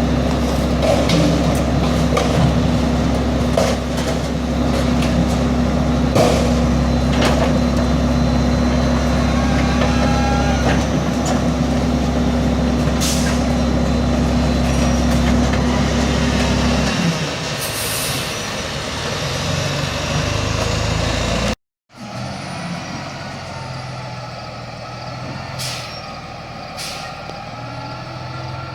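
Garbage truck engine running steadily, with a few short air hisses. The engine sound drops off about seventeen seconds in, and after a sudden cut another truck is heard more quietly.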